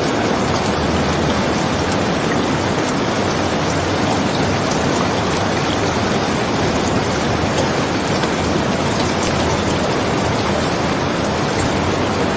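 Steady rain as an even hiss, with faint scattered ticks.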